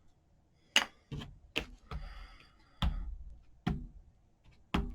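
A rubber stamp being tapped onto an ink pad and pressed onto paper on a craft table: about six sharp, irregularly spaced taps and knocks, with a faint rustle of paper partway through.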